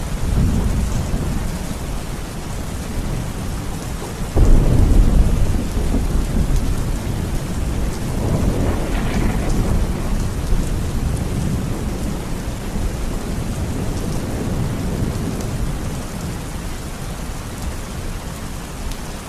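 Heavy rain falling steadily with thunder. A loud thunderclap starts suddenly about four seconds in and rolls on as a long low rumble that slowly dies away.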